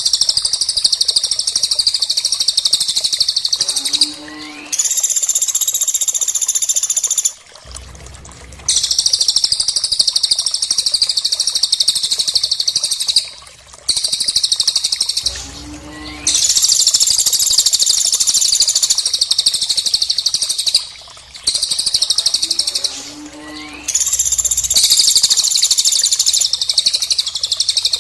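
Caged songbirds singing loud, dense, very rapid high-pitched trills in bouts of two to five seconds with short pauses between them, as on a bird-song training recording. Three times a short low note with an upward sweep comes just before a bout.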